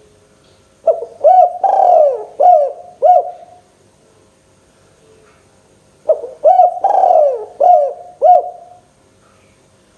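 Spotted dove (tekukur) cooing: two phrases a few seconds apart, each of about five coos with a longer, falling coo in the middle.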